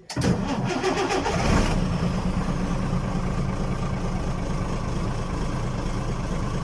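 Engine sound effect: a motor starts with a brief rising rev, then runs steadily with a low, pulsing idle.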